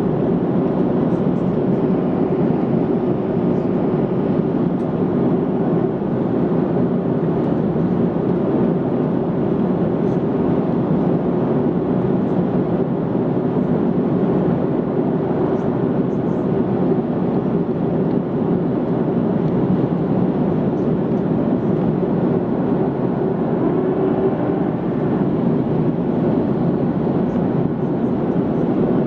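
Steady cabin roar inside an Airbus A330-200 airliner in flight: engine and airflow noise, even and unchanging.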